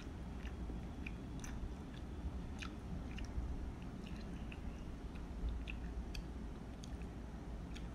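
Close-miked chewing and eating of soft instant curry noodles, with short wet mouth clicks scattered irregularly through.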